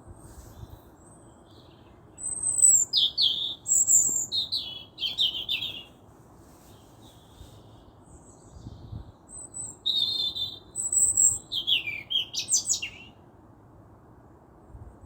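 A songbird singing two phrases of quick, varied high chirps and trills, the first starting about two seconds in and the second about ten seconds in, over a faint steady background hiss.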